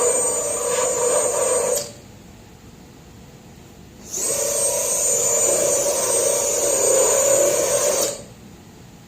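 Small high-speed rotary power tool with an abrasive bit grinding rust out of a car hood's sheet metal, giving a steady high whine with grinding noise. It runs in two spells: it stops about two seconds in, starts up again about four seconds in, and stops again near the end.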